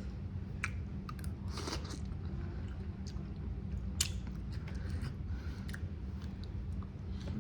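A person chewing a mouthful of kimchi stew and rice, with a few scattered short clicks over a steady low hum.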